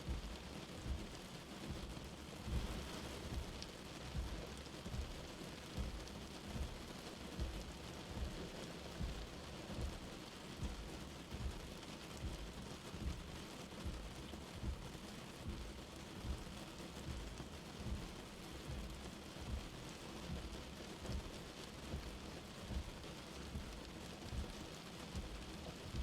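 Light rain falling steadily, an even hiss, with a soft low thump recurring about once a second beneath it.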